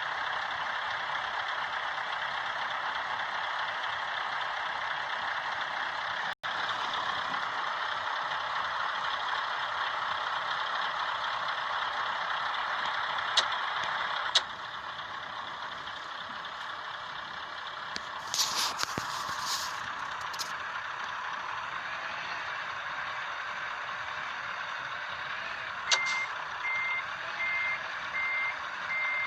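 Heavy truck running steadily, with a couple of sharp clicks and a short burst of hissing partway through. Near the end a reversing alarm starts beeping about once a second.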